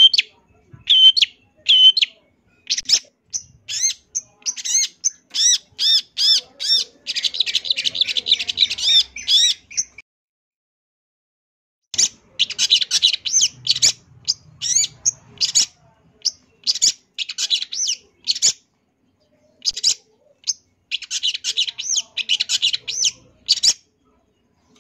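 Long-tailed shrike singing: series of short, sharp, repeated high notes broken by rapid chattering runs. About ten seconds in, the song stops for roughly two seconds.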